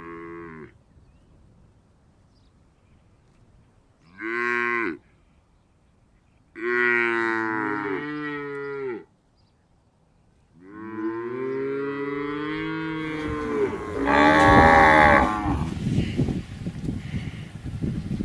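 Cattle mooing: the end of one moo, then a short moo, a longer one of about two seconds, and a long moo of about five seconds that swells louder partway through. During that last moo a rough, rumbling noise with irregular knocks comes in and carries on to the end.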